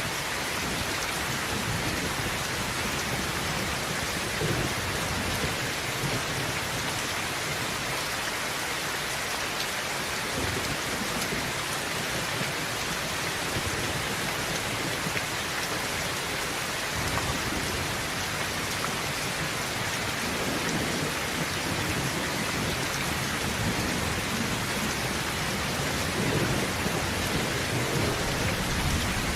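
Heavy rain falling steadily on a tin roof, with low rolling thunder that swells several times.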